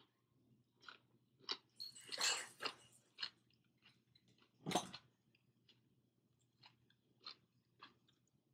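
Close-up eating sounds of a person chewing fish and rice eaten by hand: scattered wet mouth and lip smacks, with a denser, noisier spell about two seconds in and one louder sharp sound just before five seconds.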